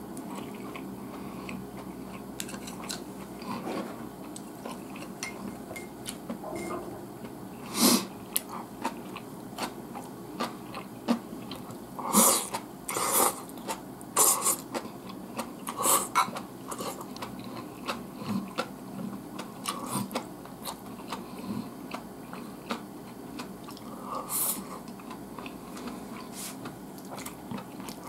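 A person chewing food while eating from a bowl with chopsticks, with many small clicks and taps of chopsticks on the bowl. Several louder brief noisy bursts stand out, the loudest about 8 and 12 seconds in.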